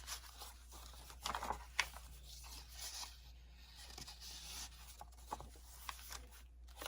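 Pages of a hardbound handmade journal being turned and handled: faint paper rustles with a few light clicks, over a low steady hum.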